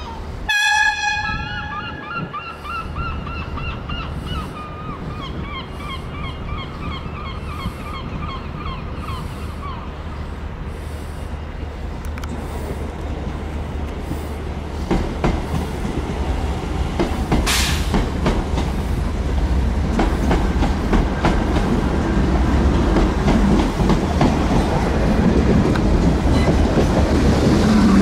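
A train horn sounds one short blast, followed by wavering high-pitched wheel squeal that slowly falls and fades over several seconds. The rumble and clatter of a train on the tracks then grows steadily louder, with a brief sharp hiss partway through.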